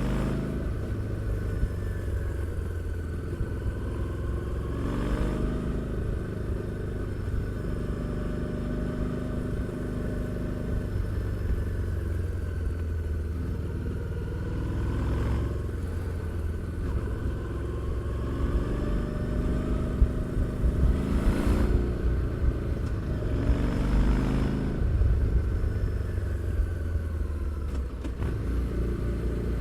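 Harley-Davidson Street 750's 749 cc liquid-cooled V-twin running under way through its exhaust, its pitch rising and falling several times as the throttle opens and closes.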